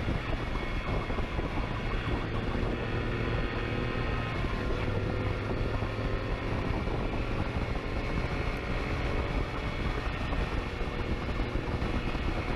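Motorcycle engine running steadily at speed, mixed with wind rush, as heard from a camera on the pursuing police motorcycle.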